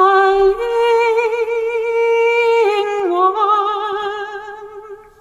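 A single woman's voice singing the slow closing phrase of a lullaby, long notes held with vibrato, falling to a final note that fades away near the end.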